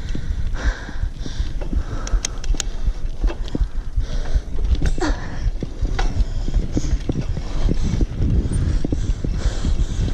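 Heavy, repeated panting breaths of a tired rider, over a loud low rumble of wind buffeting the microphone while riding.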